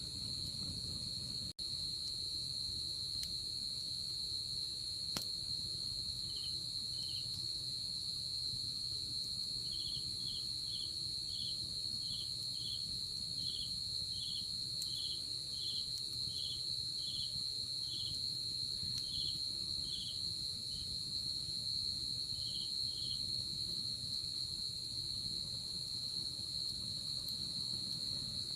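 Night insects calling: one insect holds an unbroken high trill, and a second chirps in short, evenly spaced notes, one or two a second, from about six seconds in until about twenty-three seconds in. A momentary dropout about a second and a half in.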